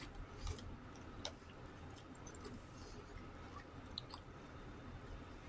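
Quiet chewing of a mouthful of chicken and rice, with a few short sharp clicks.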